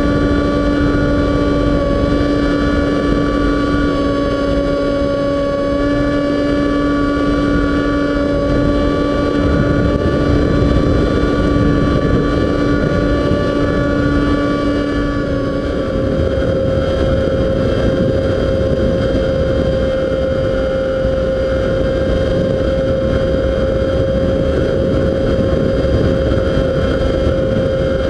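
Model airplane's motor and propeller running at a steady whine, its pitch shifting about halfway through with a throttle change, over wind buffeting the microphone in strong wind.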